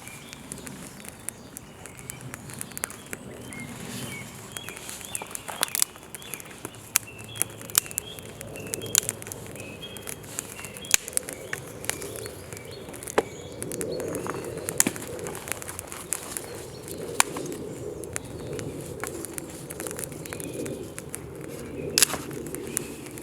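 Campfire crackling, with irregular sharp pops and snaps over a low steady rush, while small birds chirp.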